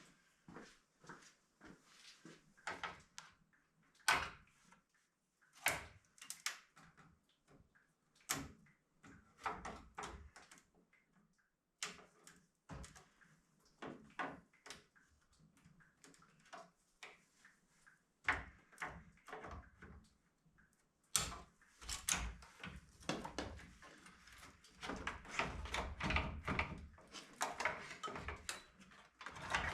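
Irregular clicks, knocks and clatter of hand tools and parts being handled, scattered at first and coming thick and fast in the last several seconds.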